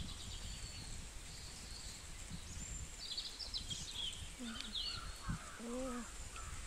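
Outdoor ambience: small birds chirping in quick high bursts between about three and five seconds in, over a steady low noise, with a faint low voice murmuring briefly near the end.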